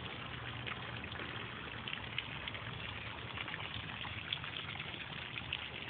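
Running water splashing and trickling steadily, with a few faint small ticks.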